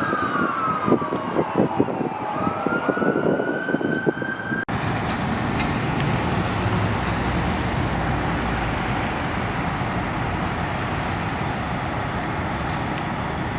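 Fire apparatus siren wailing, its pitch sweeping down and back up over a choppy rumble, which cuts off abruptly about four and a half seconds in. It gives way to a steady, loud rush of heavy vehicle engine and road noise.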